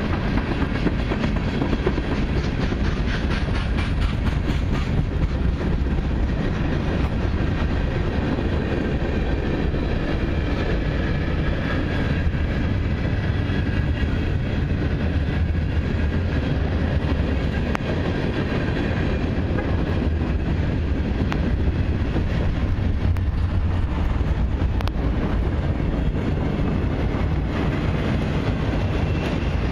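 Cars of a long CN mixed and autorack freight train rolling steadily past, a continuous rumble of steel wheels on the rails.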